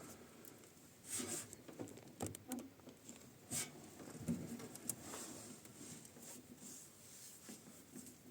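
Rowing boat: oar blades splashing and dripping in the water at irregular intervals, with occasional knocks and short creaks from the oarlocks.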